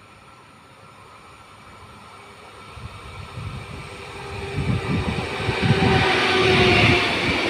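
Pesa Dart ED161 electric multiple unit approaching along the platform: wheel and running noise growing steadily louder from about three seconds in, with a steady hum tone over the rumble as it draws alongside.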